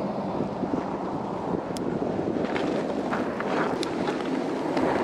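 Blizzard wind rushing and buffeting the microphone during a fat bike ride, a steady noise, with a few faint ticks in the middle.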